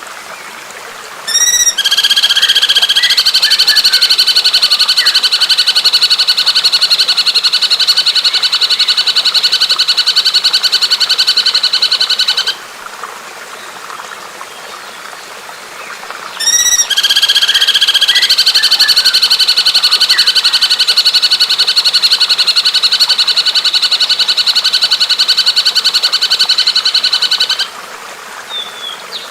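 Bird call recording: two long, very fast, even trills of about eleven seconds each, the second starting about four seconds after the first ends. Each trill opens with a quick run of short rising notes. A steady hiss of running water lies underneath.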